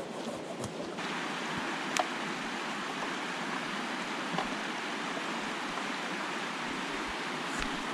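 Brook water running steadily over rocks, with a few sharp clicks.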